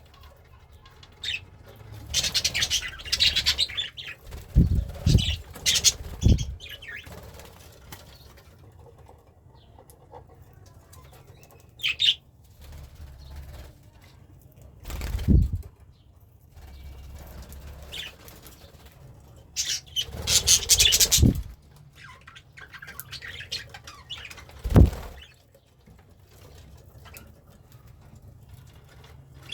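Pet budgie flapping its wings in several short bursts, with a few low thumps and a brief chirp in between.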